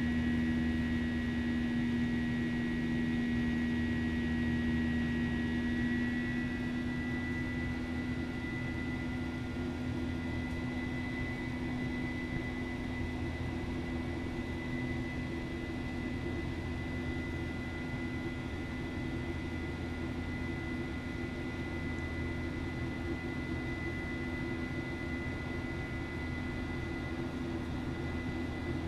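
Boeing 737-900's CFM56 jet engines running steadily, a drone with a low hum and a high whine. About six seconds in the sound drops slightly and the whine shifts, as the engine setting changes.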